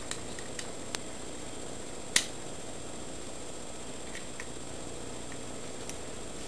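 Small clicks and taps from handling a rotary tool and its bit, with one sharper click about two seconds in, over a steady low hiss; the tool's motor is not running.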